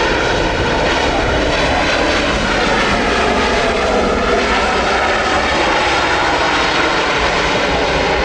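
Airliner engines running loud and steady close by, a dense roar with high whining tones over it that shift slightly in pitch about two seconds in.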